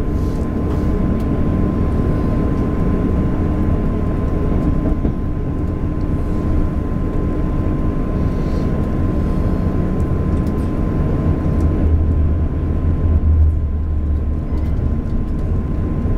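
Passenger train running at speed, heard from inside the carriage: a steady low rumble of wheels on the track, with a thin steady whine above it. The low rumble grows heavier for a couple of seconds about twelve seconds in.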